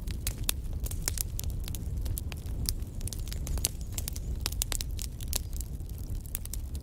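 Wood fire burning in a fireplace: frequent irregular crackles and snaps of burning logs over a steady low rumble of the flames.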